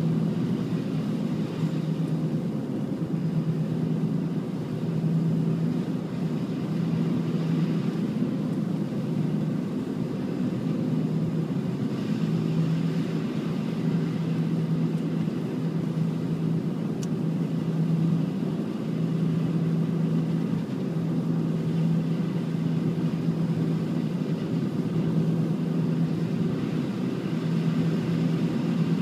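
An engine running steadily, a low hum with a slight pulsing.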